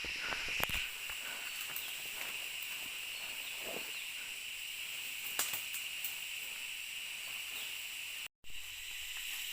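Steady high buzzing of an insect chorus, with a few faint clicks. The sound cuts out completely for a moment near the end.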